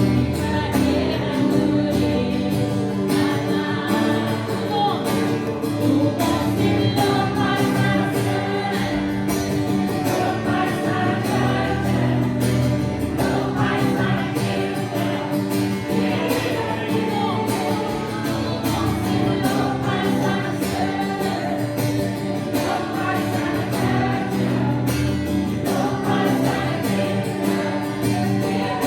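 Live worship music: a group of voices singing a praise song together over instrumental accompaniment, steady throughout.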